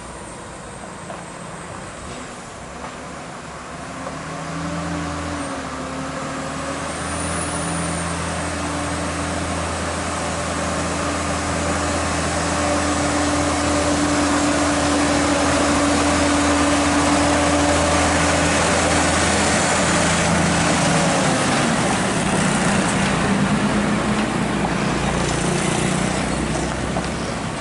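Heavy-haul truck with a heavy-equipment load driving past. Its diesel engine grows louder as it approaches, holds a steady note at its loudest, then drops in pitch and fades as it goes by, over tyre and road noise.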